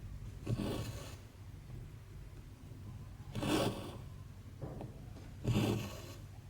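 Embroidery floss pulled through 14-count cross-stitch fabric, a short rasping swish with each stitch, three times about two seconds apart.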